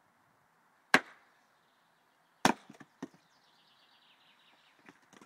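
Axe chopping into a spruce trunk: two sharp strokes about a second and a half apart, the second followed by a couple of small knocks.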